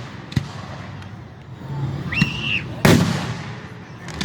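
Fireworks display: a sharp crack about half a second in, then a loud shell burst about three seconds in whose boom fades slowly, with another burst starting at the very end. A brief high whistle comes just before the big boom.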